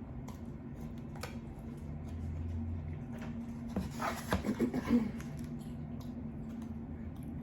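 Close-miked mouth sounds of eating lo mein noodles, soft chewing with small clicks, over a steady low hum. About four seconds in comes a short louder cluster of voice-like sound lasting about a second.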